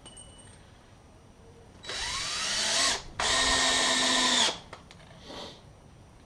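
Screw gun driving a 2.5-inch outdoor screw into 2x10 lumber, run with the clutch off, in two pulls of the trigger. The first starts about two seconds in and rises in pitch as the motor spins up. After a brief pause, a steadier run of about a second and a half follows and stops sharply.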